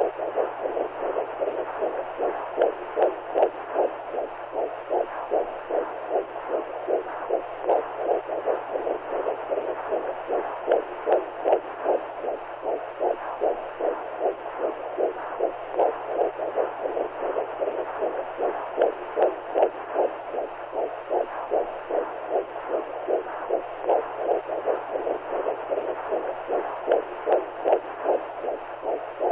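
Womb sound: the mother's heartbeat and blood flow as heard inside the belly, a steady rhythmic whooshing pulse that repeats evenly without letup, with a faint low hum underneath.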